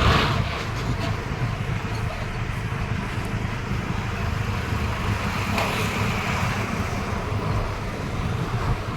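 Steady rumbling running noise of a moving vehicle, with wind.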